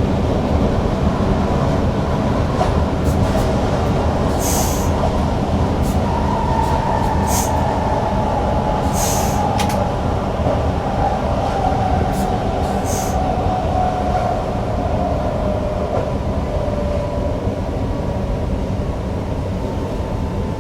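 Newag Impuls EN63 electric multiple unit running, heard from the driver's cab: a steady rumble of wheels on rail, with a motor whine that falls steadily in pitch from about six seconds in as the train slows for a stop. A few short high hisses come through the rumble.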